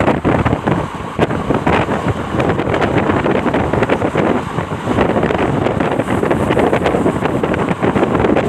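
Heavy wind buffeting the microphone over the steady rumble of a train running close by, with irregular knocks throughout.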